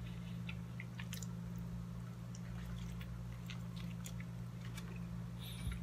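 A man biting into and chewing a burrito close to the microphone: small wet mouth clicks and squishes scattered throughout, over a steady low hum.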